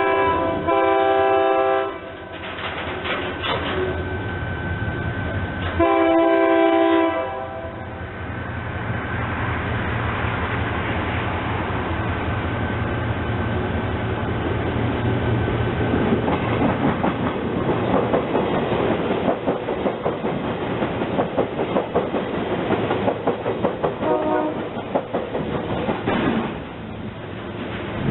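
A train horn sounds a long chord blast, a second blast about six seconds in and a short one near the end, while a train rolls past with its wheels clattering over the rail joints.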